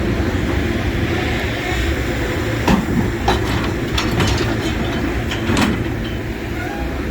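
A steady engine rumble from heavy scrap-handling machinery, with a handful of sharp metal clanks between about a third and four-fifths of the way in, as cast iron scrap is lifted off the truck with a magnet and bangs together.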